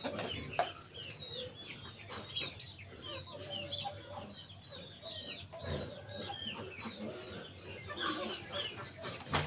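Chickens calling continuously: many short, high, falling peeps of chicks mixed with lower clucks of a hen, with a short knock near the end.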